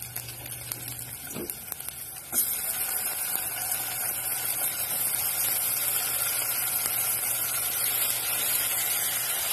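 Sautéing onion crackling quietly in a non-stick pan with a few clicks, then, about two seconds in, raw chicken goes into the hot oil and a loud, steady sizzle takes over.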